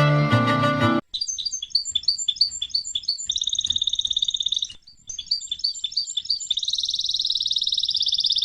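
A songbird singing: runs of quick high chirps broken by long trills, with a brief pause about five seconds in. Music cuts off about a second in, just before the singing starts.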